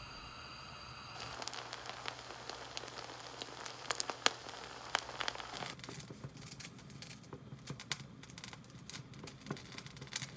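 Many small, irregular crackles and clicks over a steady low hum; the hum stops about six seconds in.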